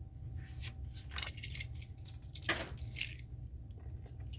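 A few light clicks and clinks of small die-cast toy cars being handled, about a second in and again between two and three seconds in, over a low steady hum.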